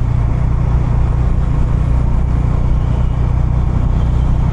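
Bajaj Dominar 250's single-cylinder engine and exhaust running steadily while the motorcycle cruises along the road.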